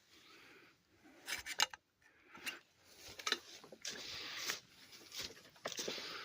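Footsteps crunching and rustling through dry leaf litter and brush, in irregular bursts of crackling.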